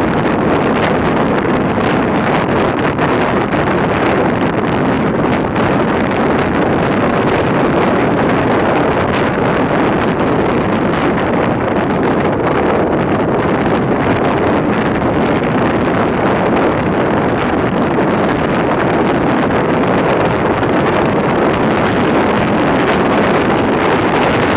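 Loud, steady rushing of a river in flood, with wind on the microphone.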